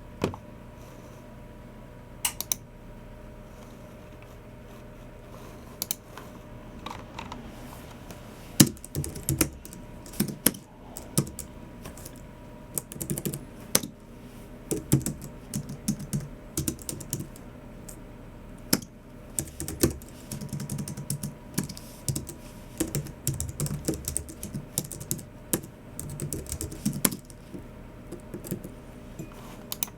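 Typing on a Logicool MX Keys Mini low-profile keyboard. There are a few separate clicks in the first several seconds, then fast runs of keystrokes in bursts with short pauses.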